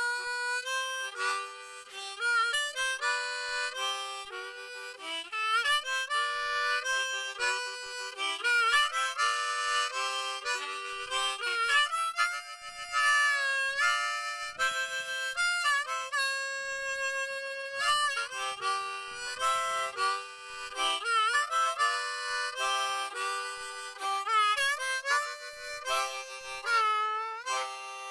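Harmonica music, blues-style, with bent notes and a long held chord about two-thirds of the way through.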